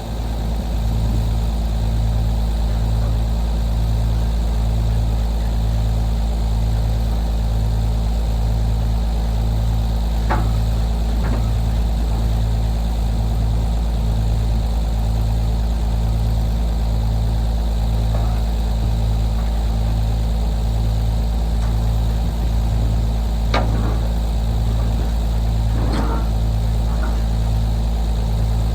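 A vehicle engine running steadily: a low drone that pulses about once a second, with a few faint knocks.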